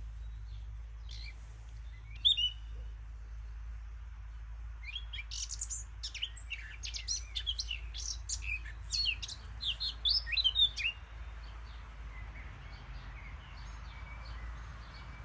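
Birds chirping: a single sharp chirp, then a dense run of rapid high chirps in the middle, thinning to a few faint ones near the end.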